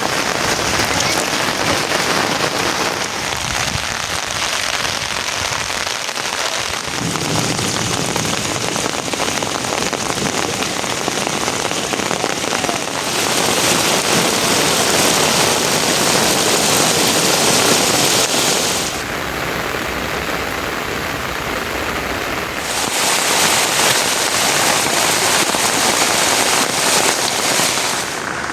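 Steady rain falling, a dense hiss that shifts suddenly a few times between a duller and a brighter, louder sound.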